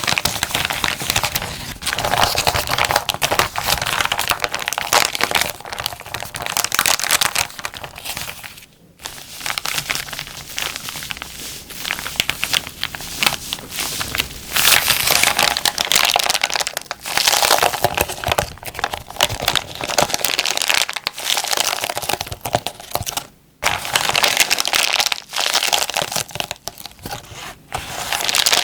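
A plastic zipper bag being crinkled and crumpled by hand, with a dense, continuous crackling that drops out briefly about 9 seconds and 23 seconds in.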